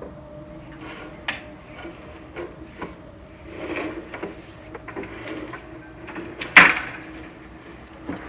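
Chimney inspection camera and its cable knocking and scraping against the masonry flue as they are fed down it, with one sharp knock about six and a half seconds in, over a steady hum.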